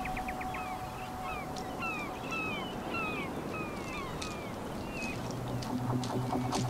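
A bird calling: a quick trill, then a run of short downward-slurred notes, about two a second. Near the end a low steady hum and faint rhythmic clicking come in.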